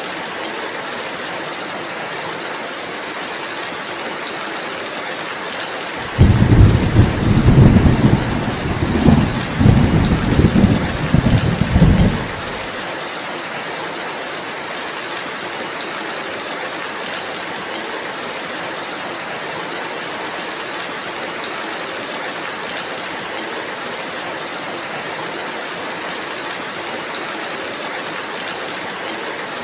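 Steady rain falling, with a roll of thunder that rumbles low and loud in several swells for about six seconds, starting about six seconds in.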